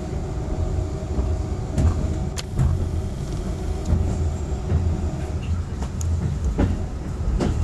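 Keikyu commuter train running, heard from inside the carriage: a steady low rumble with a few sharp clicks from the wheels on the track.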